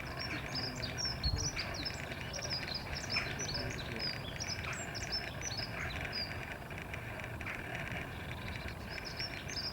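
Many small birds chirping over one another in quick, high, overlapping calls, over a steady low rumble.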